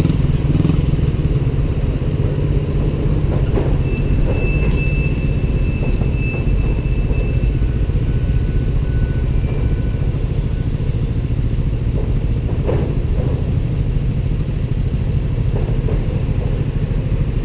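Motorcycle engines idling at a standstill, among them a vintage Honda CB350's parallel twin: a steady low rumble.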